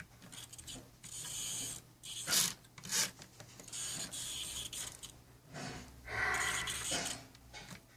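Irregular scraping, rubbing and clicking of a small plastic HO scale model locomotive being handled, in several separate spells with a few sharp clicks.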